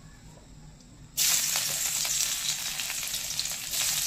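Chopped garlic hitting hot oil in a steel kadai: a sudden sizzle starts about a second in and goes on as steady frying.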